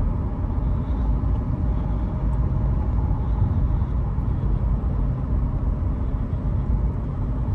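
Steady engine and road rumble heard from inside a moving car, even throughout with no distinct events.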